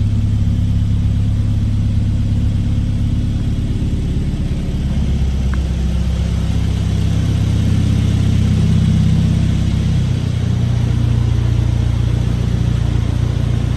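1958 Triumph TR3A's four-cylinder engine idling steadily just after a cold start, its idle speed shifting slightly a couple of times.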